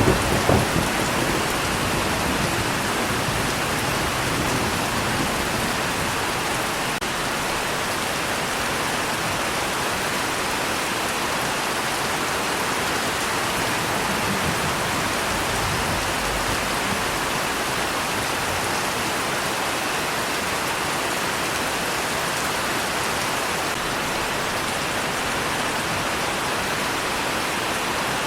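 Steady rain falling. A low thunder rumble fades out in the first second.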